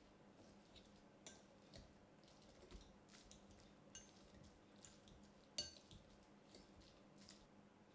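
Faint, scattered clinks and taps of kitchen utensils against dishes, with one sharper clink about five and a half seconds in.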